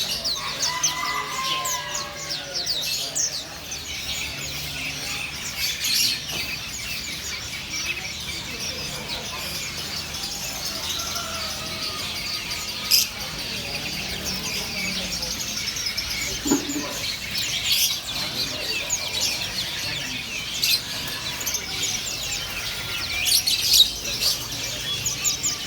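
Many caged songbirds chirping and trilling at once in a dense, continuous chorus, with a few louder sharp calls standing out.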